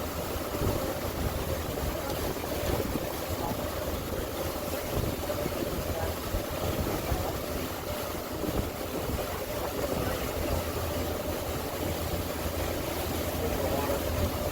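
Boat engine running steadily under way, with a faint steady tone over a continuous rumble of wind and water noise.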